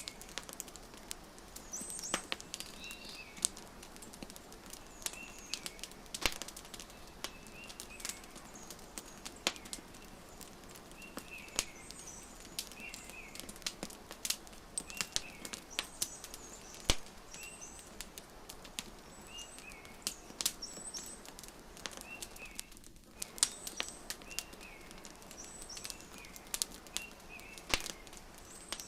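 Wood fire crackling, with sharp irregular pops over a soft hiss, while a small bird chirps short calls again and again, about one every one to two seconds.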